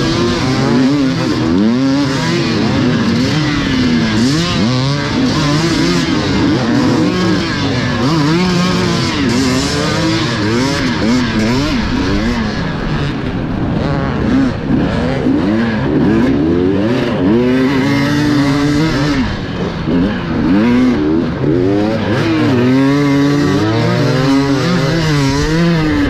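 Several enduro motorcycles revving hard together as they race off the start, their engine notes overlapping and rising and falling through the gears.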